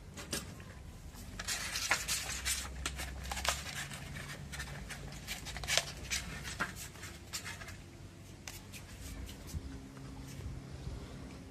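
A dog licking and eating ice cream: a run of quick wet licks and mouth clicks, densest in the first half and thinning out after.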